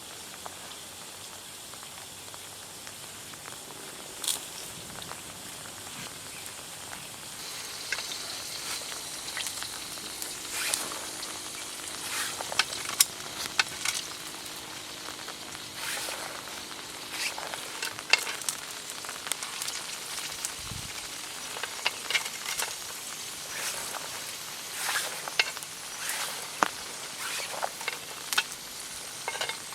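Food sizzling as it fries in a pan, with many sharp pops and crackles; the sizzle grows louder about eight seconds in.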